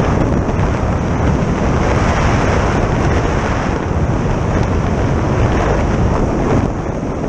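Heavy wind buffeting and rumbling on the microphone while riding a Zero FX electric motorcycle at speed, with no engine note over it.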